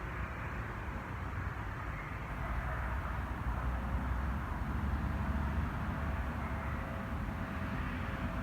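Steady outdoor rumble of a distant vehicle. It grows a little louder through the middle, then eases off, with no gunshots.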